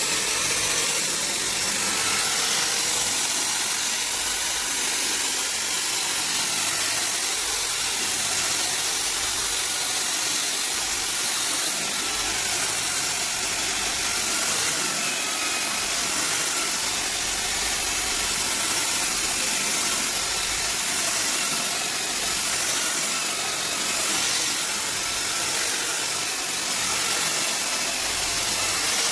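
A high-speed motor running steadily, giving a continuous hiss with a high whine that wavers slightly in pitch.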